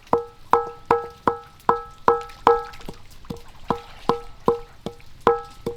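Pestle pounding spices in a mortar: steady strikes about two and a half a second, each with a short ringing tone, with a brief pause about halfway through.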